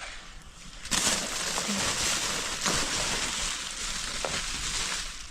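Spray gun hissing steadily as insulation is sprayed. It switches on suddenly about a second in and stops near the end.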